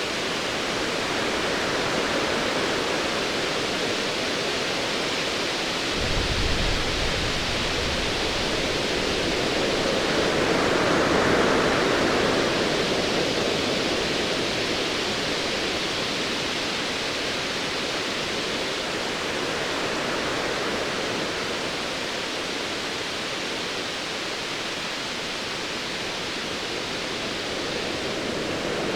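Ocean waves washing in a steady hiss of surf, one swell building and easing about ten to thirteen seconds in. A brief low rumble of distant thunder comes about six seconds in.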